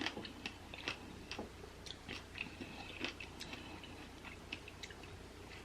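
Faint close-up chewing of a mouthful of fresh fruit and berries, with scattered small crunches and clicks.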